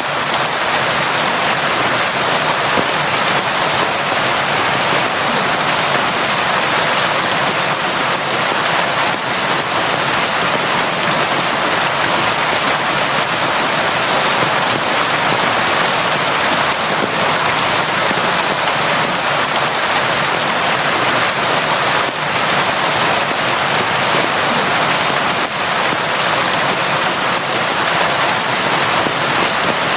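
Steady, constant rain falling, an even hiss of drops with no let-up.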